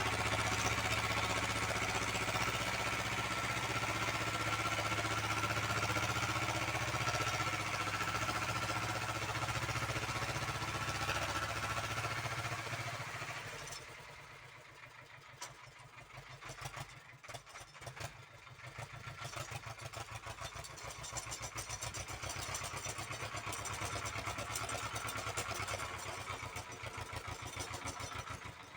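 Uralets mini-tractor engine running under load, then dropping to a slow idle about halfway through, where its separate firing beats can be heard, before picking up again.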